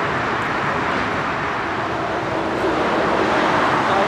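Airliner jet engines, a loud, steady roar that grows a little louder near the end.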